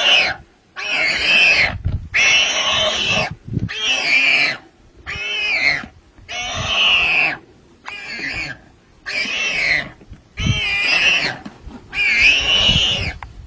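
An animal crying out over and over: about ten loud, high, harsh calls, each roughly a second long, separated by short pauses.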